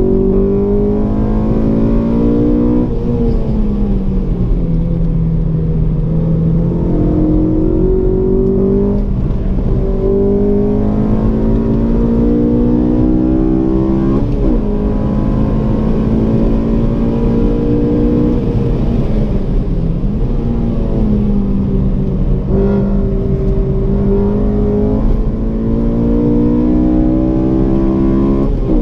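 Honda Civic Si's four-cylinder engine heard from inside the cabin, hard on the throttle through the gears: the engine note climbs for a few seconds and drops back, again and again, as the driver shifts and lifts.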